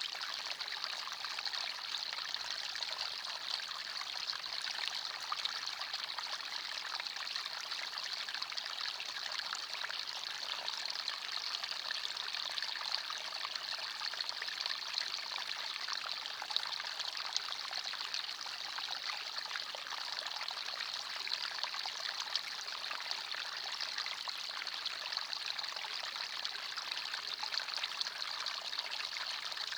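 A small forest stream running over stones: a steady babble and trickle of water with fine splashing.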